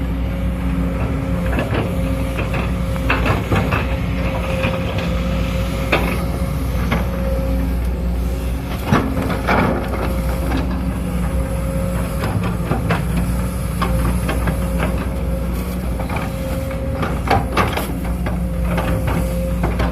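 Sumitomo SH210 excavator's diesel engine running steadily under load, with a steady whine over it and scattered knocks and clanks throughout.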